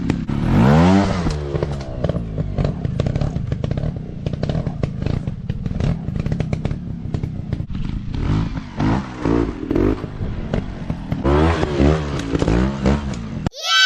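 Off-road motorcycle engines revving in repeated blips, rising and falling in pitch, over steady clattering and scraping. Near the end the engine sound cuts off abruptly and a loud tone sliding down in pitch begins.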